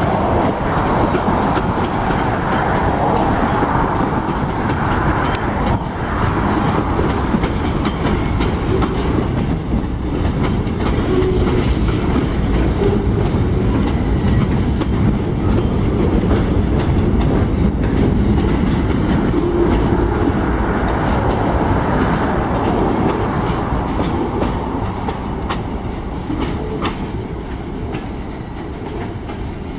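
Freight cars rolling past on the rails: a steady rumble with wheels clicking over the rail joints. It fades over the last few seconds as the tail of the train draws away.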